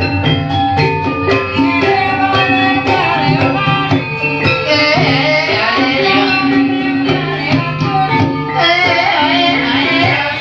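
Javanese gamelan music accompanying an ebeg dance: struck keyed instruments ring in steady notes over quick kendang drum strokes. A singer's wavering voice comes in about halfway through, drops out, and returns near the end.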